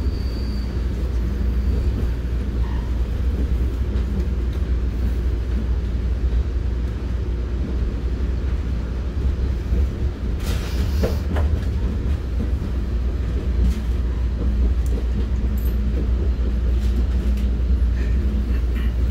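Commuter train cars running along the rails, heard from inside a passenger car: a steady low rumble with faint scattered ticks, and a brief hiss about ten seconds in.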